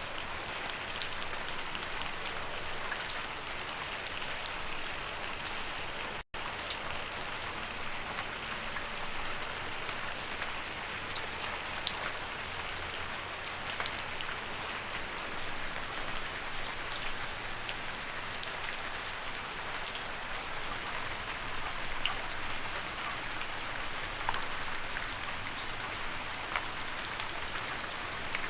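Steady rain falling, an even hiss scattered with many sharp ticks of individual drops hitting a surface. About six seconds in, the sound cuts out for a split second.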